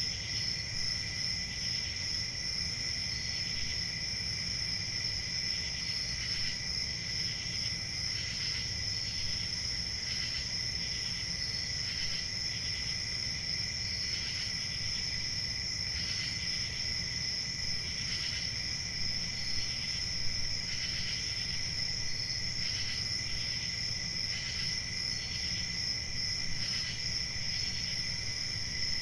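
Crickets chirping in a continuous chorus: a steady high trill with a lower, fainter one beneath it, pulsing slightly about every two seconds, over a low background rumble.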